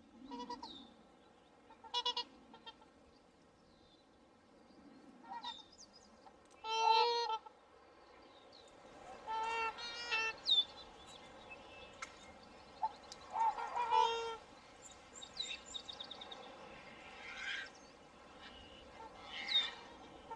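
A flock of swans calling with short honking calls that come again and again, the loudest about seven, ten and fourteen seconds in, with smaller chirps between them.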